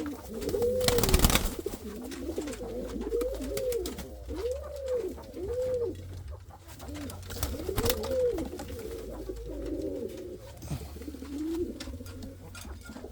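Domestic pigeons cooing, a run of coos that each rise and fall in pitch, repeating about once a second, with a brief loud rustle about a second in.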